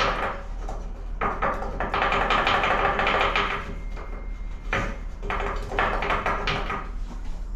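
A few sharp knocks and a stretch of rough scraping noise, from parts being handled in a shop, over a steady low hum.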